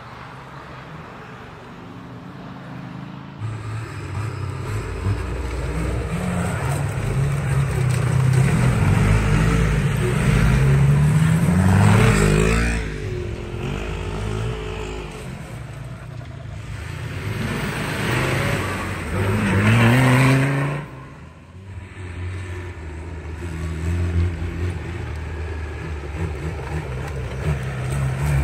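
Off-road 4x4 vehicle engine working under load, revving up twice with the pitch climbing each time; the second rev drops off abruptly.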